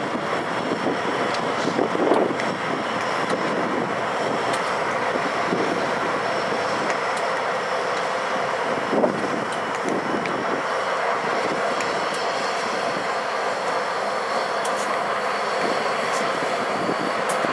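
Canadian Pacific diesel locomotives rolling past: a steady run of engine and wheel-on-rail noise, with a few faint clicks.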